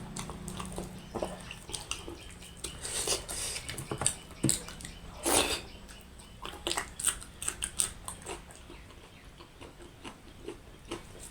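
Close-miked eating sounds: irregular wet chewing and mouth smacks, with a few light clinks of dishes or cutlery.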